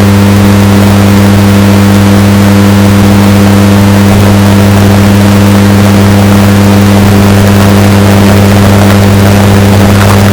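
Washing machine running with a steady low hum, heavily bass-boosted and distorted until it is very loud.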